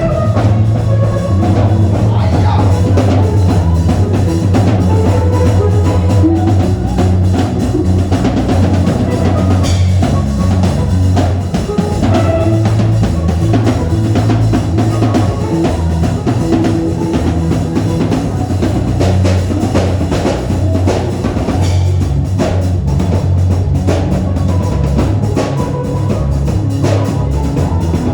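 Live church band music: a drum kit with bass drum and snare keeping a steady beat over a sustained bass line.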